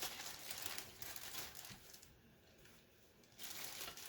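Small plastic Commodore 64 keyboard parts being handled as the key plungers are fitted: soft, irregular rustling with light clicks, dropping away for about a second and a half, then starting again near the end.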